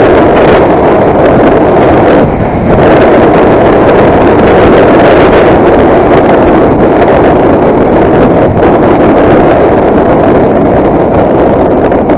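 Loud, steady wind roar on the microphone of a camera on a motorcycle at riding speed, easing briefly about two seconds in.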